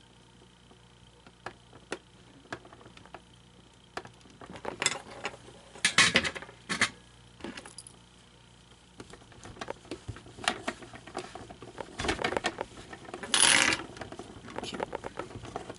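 Irregular clicks, taps and clatter of small hard parts and tools being handled during a repair, with louder bursts of scraping and handling noise about six and thirteen seconds in.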